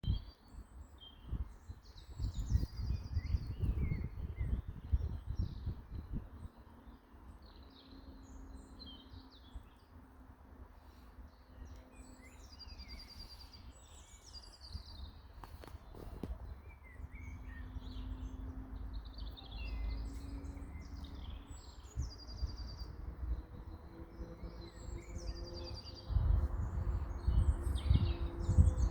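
Several birds singing and chirping outdoors, one repeating a short phrase that ends in a quick trill every ten seconds or so. Low rumbling comes and goes, strongest in the first few seconds and near the end.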